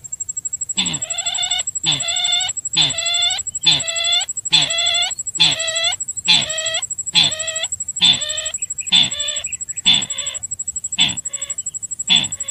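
A recorded bird-call lure for the sintar bird: the same harsh, clucking call repeated evenly a little faster than once a second, growing weaker near the end. A thin, steady high whine runs underneath.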